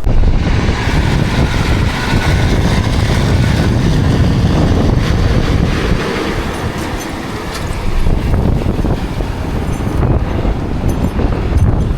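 Wind buffeting the microphone in heavy gusts over the steady sound of running machinery.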